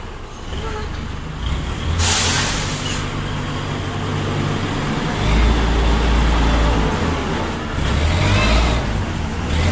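Heavy truck engine running with a deep rumble that grows louder about halfway through, and a sharp hiss of released air lasting about a second, about two seconds in.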